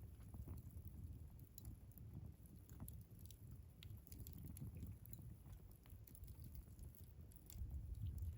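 Wood fire crackling in a Picogrill 398 fire pit: faint, scattered pops and snaps over a low rumble, which grows louder near the end.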